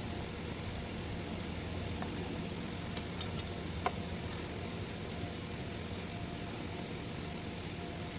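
Steady low background hum of a machine or engine, with two faint clicks about three and four seconds in.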